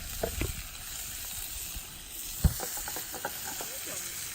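Food hissing and sizzling in a pan over a campfire, with one sharp knock about two and a half seconds in and a few lighter clicks.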